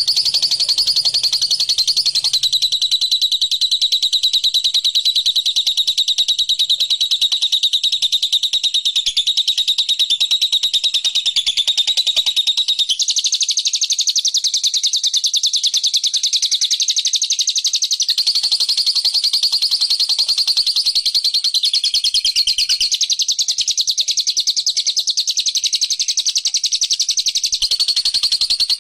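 Recorded bird lure call for bilabu: a loud, unbroken, very rapid high-pitched trill. Its pitch shifts up or down in steps every few seconds.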